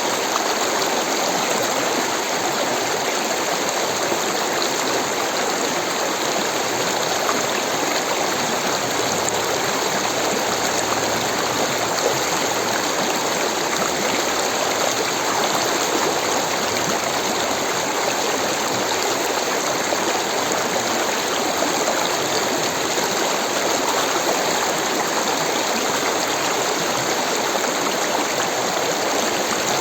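Rushing water flowing steadily, an even, unbroken hiss with no pauses or changes.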